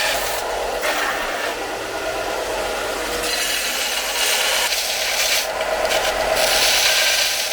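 Steady abrasive rubbing on a workpiece, changing in texture a few times.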